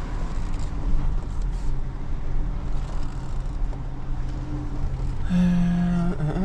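Tow truck's engine running steadily, heard from inside the cab while the truck is maneuvered. A held low tone with overtones sounds briefly near the end.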